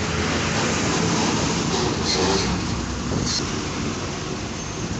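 Steady noise of a road vehicle on the move: a low engine rumble under a constant hiss of road and wind noise.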